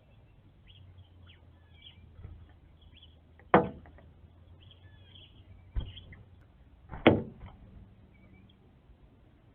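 A northern cardinal attacking window glass: three sharp knocks on the pane, the middle one fainter, spaced about two and then about one and a half seconds apart. Faint high bird chirps sound in the background.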